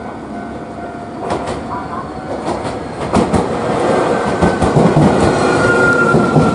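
Electric train running on rails, its wheels knocking over the rail joints in a clickety-clack that grows louder and denser, with a slowly falling whine near the end.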